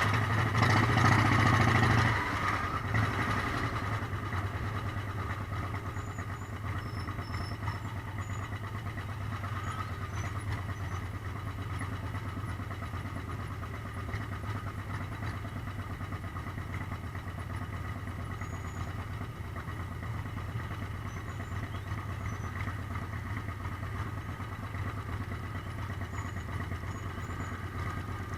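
Motorcycle engine running steadily at low revs. It is louder for the first two seconds, then settles into an even hum.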